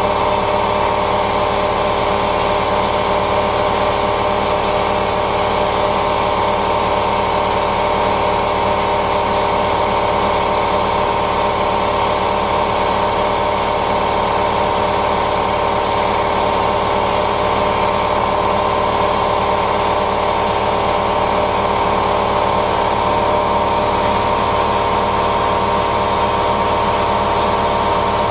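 A machine running steadily at constant speed: a hum of several fixed tones over a hiss, unchanging, cutting off suddenly at the end.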